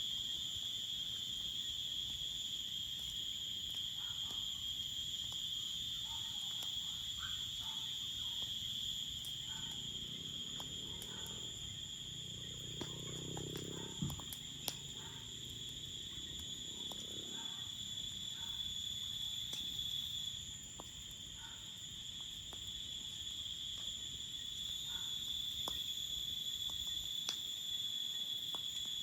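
Crickets chirring in a steady, continuous high-pitched chorus. A faint low murmur comes in around the middle, with two sharp clicks about halfway through.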